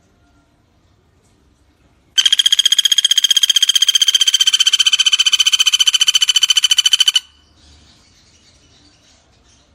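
Pelatuk bawang woodpecker calling: one rapid, even rattling trill of about a dozen notes a second, lasting about five seconds and starting about two seconds in.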